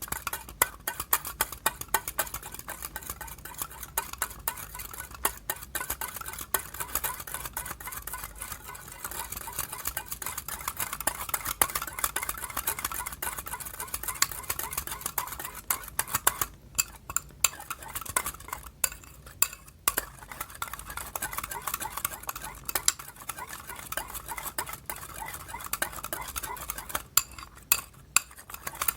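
A sticky soap-based slime mixture being stirred in a bowl with a utensil: a steady run of small wet clicks and crackles, pausing briefly a few times in the latter part.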